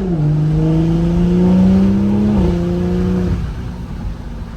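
BMW M340i's turbocharged B58 inline-six, through a downpipe and AWE Touring exhaust, accelerating in sport mode, heard from inside the cabin. The engine note climbs, drops with an upshift at the start and again about two and a half seconds in, then falls away about three seconds in.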